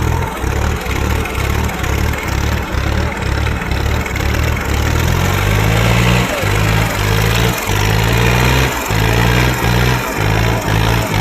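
Tractor engines running hard under load, mixed with a bass-heavy music beat.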